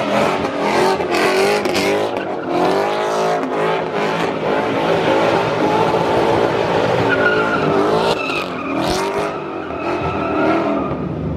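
Ford Mustang engine revving hard, its pitch rising and falling again and again, while the rear tyres squeal and skid in a burnout-style slide.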